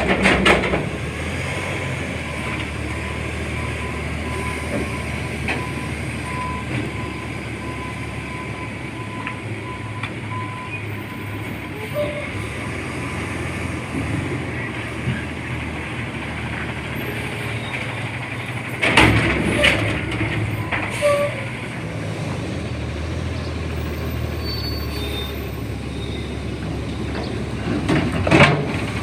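A CNG front-loader garbage truck running steadily, with a few loud bangs about two-thirds of the way through and again near the end.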